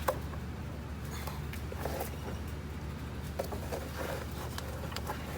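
Light clicks and rubbery rustling of a spark plug wire boot being worked and pressed down into the plug well by hand, with a sharp click near the start, over a steady low hum.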